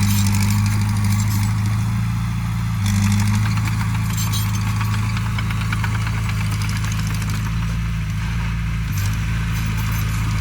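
Diesel engine of a working earthmoving machine running steadily with a low hum and a light even clatter, its pitch shifting slightly a couple of times.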